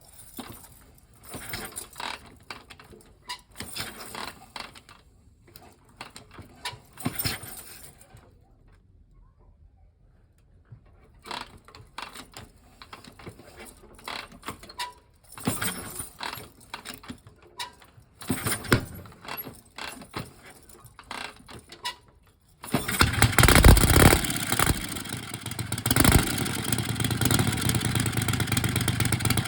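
Scattered clicks and clunks, then about three-quarters of the way in a Harley-Davidson Knucklehead's V-twin engine starts suddenly and keeps running loudly, with a couple of louder surges.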